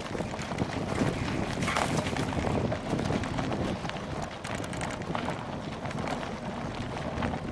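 Wind buffeting the camera's microphone on a bicycle ride into a headwind, mixed with scattered rattles and knocks from the bike over a rough trail.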